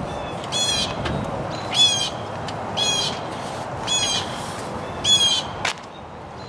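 A bird calling with five short, harsh caws, about one a second.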